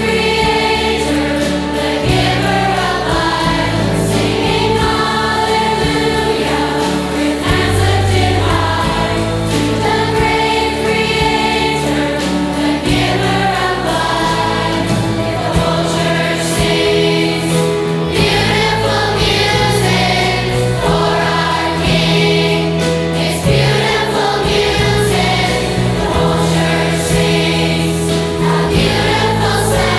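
A choir singing the song with instrumental accompaniment; held low bass notes change every second or two under the voices.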